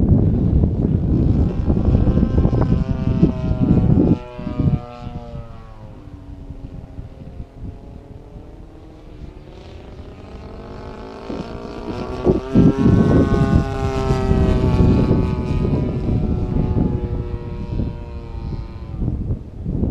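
DLE 35 single-cylinder two-stroke gas engine of a large radio-control aerobatic plane in flight. Its note drops and fades about four seconds in, stays lower for several seconds, then climbs and swells again as the plane comes back around. Wind rumbles on the microphone at the start and near the end.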